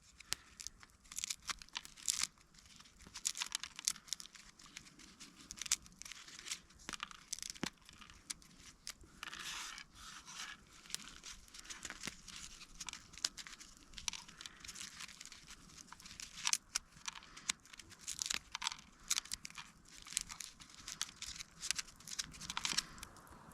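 Dry material crackling and crunching in irregular sharp snaps, thin and crisp rather than deep, with a denser rustling, tearing stretch about nine to ten seconds in.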